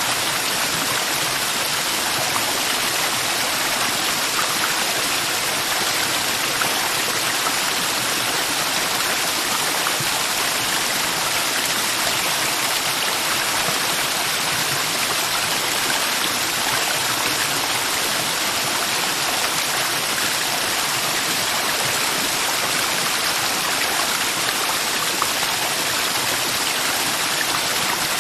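Mountain river water rushing steadily over rocks, a constant even hiss without breaks.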